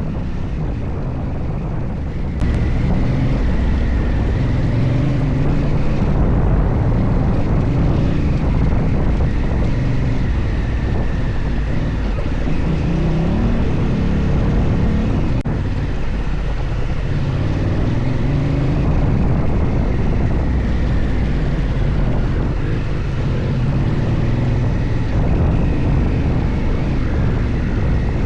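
Adventure motorcycle engine running under load, its pitch rising and falling as the rider works the throttle, with wind buffeting the microphone. It gets louder about two seconds in.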